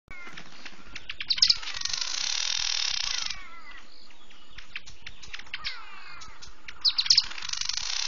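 Several wild birds calling and chirping together, with a dense rapid trilling for a couple of seconds early on and loud sharp calls about a second and a half in and again near the end.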